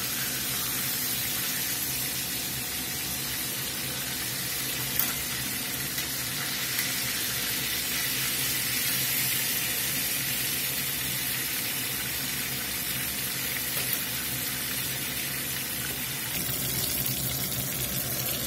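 Breaded chicken fried steaks shallow-frying in hot oil in a cast iron skillet, a steady sizzle, with a few short clicks along the way.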